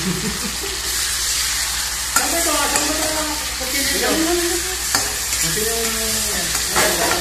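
Onions, garlic and tomato slices sautéing in an aluminium wok: a steady sizzle while a knife and then a metal ladle stir and scrape through them, with a few sharp clinks of metal on the pan.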